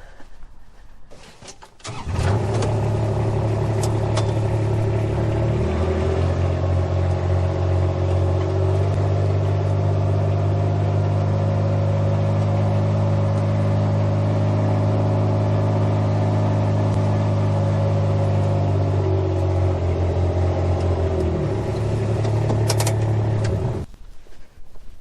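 An engine starts about two seconds in and runs with a steady hum. It speeds up after a few more seconds, settles back down to a lower speed near the end, and then shuts off.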